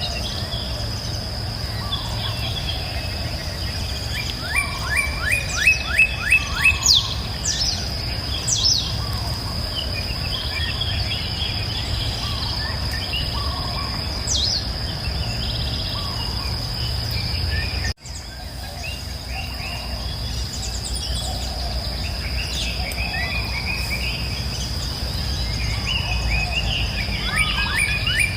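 Outdoor nature ambience: a steady, high insect drone with bird calls over it, including a quick run of about seven chirps around five seconds in and another near the end. The sound cuts out abruptly for a moment about two-thirds of the way through, then resumes.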